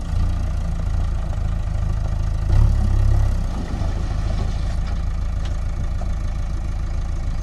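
Heavy diesel engine running steadily, with a swell in loudness for about a second, around two and a half seconds in.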